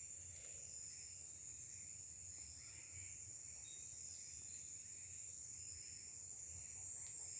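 Faint, steady high-pitched insect chorus in woodland at dusk, with no distinct events standing out.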